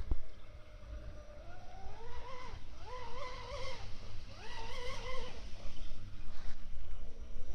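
Traxxas M41 DCB radio-controlled speed boat's electric motor whining as it runs on the water, rising and falling in pitch three times in a row as it is throttled up and eased off, over a low rumble.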